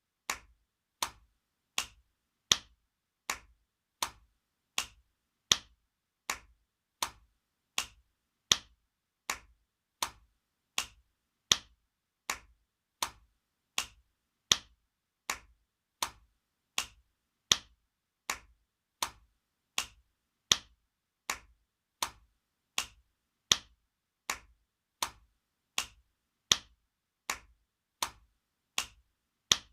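Spanking sound effect: a hand smacking bare skin, one sharp slap about every three quarters of a second in a steady loop, some louder than others.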